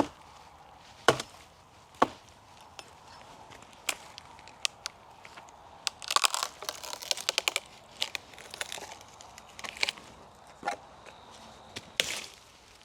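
Irregular sharp snaps and dry crackling, like small dry sticks being broken and handled, with a dense flurry of snapping about halfway through.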